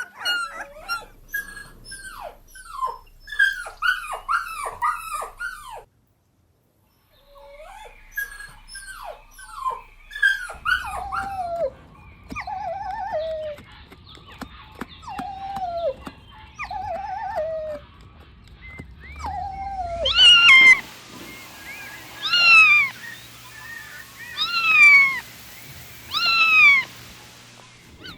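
Puppies whining and yelping in rapid, high-pitched, downward-falling cries, broken by a brief cut to silence about six seconds in. Near the end come four louder, longer drawn-out whines, each a couple of seconds apart.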